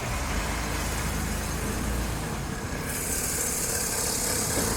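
Car engine idling steadily, a low hum, with a steady hiss joining about three seconds in.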